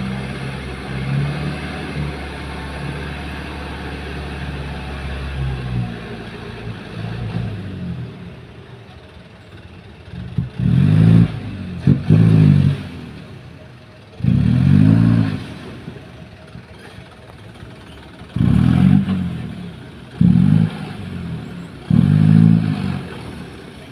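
Dump truck's diesel engine running steadily for the first few seconds, then revved in about six short bursts, each rising in pitch and dropping back, while the truck unloads a load of fill soil.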